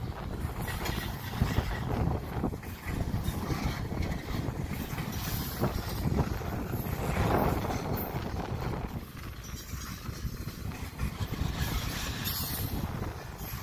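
Double-stack container train's well cars rolling past, steel wheels rumbling on the rails with occasional short knocks.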